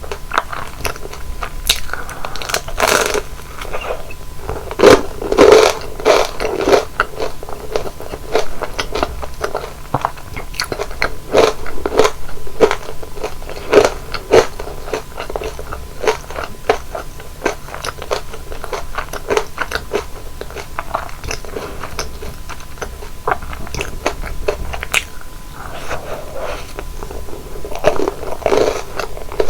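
Close-miked eating of deep-fried kkotppang (flower-shaped steamed buns): crisp crunching bites and chewing, a steady run of sharp crunches with the loudest about five seconds in.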